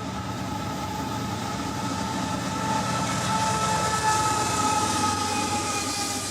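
A train running: a steady rumble and rattle with thin, high held tones over it.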